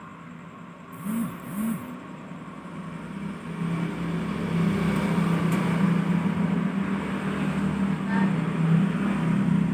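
A steady low motor hum that swells from about three and a half seconds in and holds, after two brief hissing sounds about a second in.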